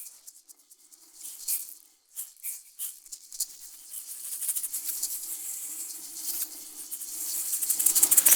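Dry rattling in a piece of contemporary music, sparse and irregular at first, then thickening into a dense rattle that swells to its loudest near the end, over a faint low sustained tone.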